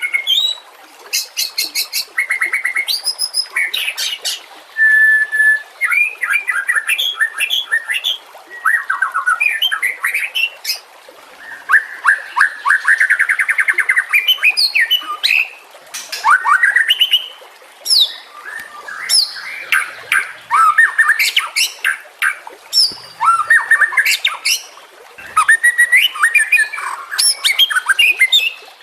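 White-rumped shama singing a long, varied song of clear whistles, rapid trills and harsh chattering notes, in short phrases with brief pauses between them.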